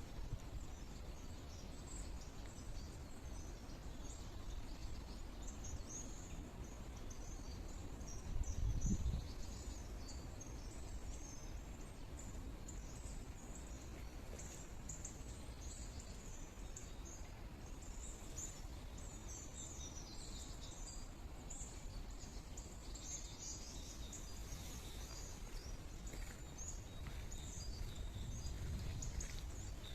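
Small songbirds chirping and twittering in many short, overlapping calls over a steady low outdoor noise, with a brief low rumble about nine seconds in.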